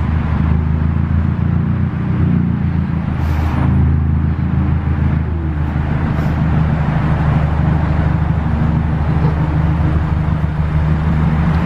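Ford Fiesta ST engine running steadily at low revs as the car is driven slowly, with a low drone whose pitch shifts slightly about halfway through.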